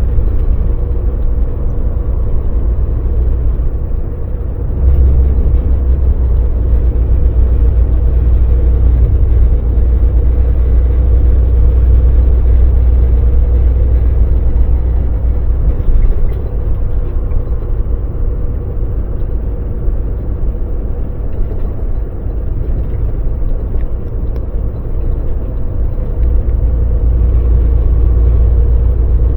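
Volvo VNL semi truck's diesel engine running under way, a deep steady rumble with a constant hum above it. The engine gets louder about five seconds in, eases off past halfway, and picks up again near the end.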